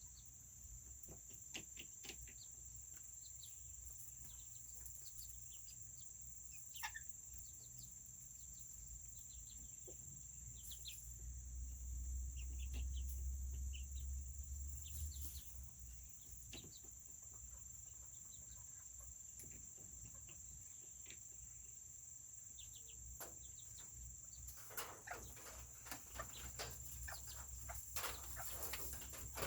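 Serama bantam chickens clucking softly in short, scattered calls, busier near the end, over a steady faint high-pitched whine.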